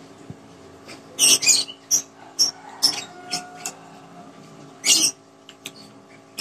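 Close-miked crunching and chewing of crisp raw fruit, a run of sharp crunches with the loudest just over a second in and another near five seconds.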